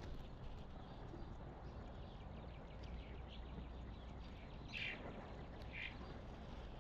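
Short bird calls: a faint one about three seconds in, then two clearer calls about a second apart, over a steady low background noise.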